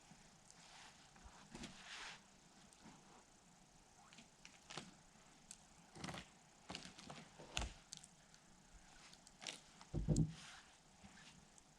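Scattered knocks and clunks from handling work with the sawmill shut off, ending in a heavier thump about ten seconds in.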